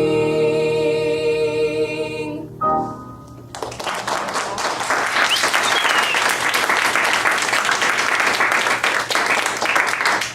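Two female voices hold the song's final note with piano accompaniment, cutting off about two seconds in; a short piano chord closes the song, and from about three and a half seconds on the audience applauds steadily.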